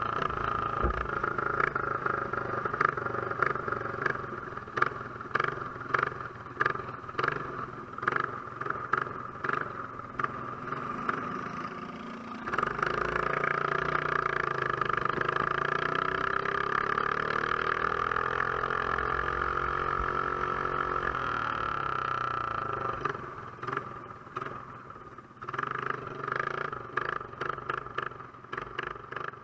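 A Box Stock quarter midget's small single-cylinder engine running at racing speed, heard from a camera mounted on the car. The sound surges in short, repeated pulses for the first dozen seconds, runs steadily for about ten seconds, and then pulses again near the end.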